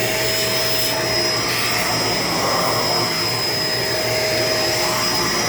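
Shark LA702 Lift-Away upright vacuum running steadily on the stairs, a constant whooshing suction with a steady motor whine.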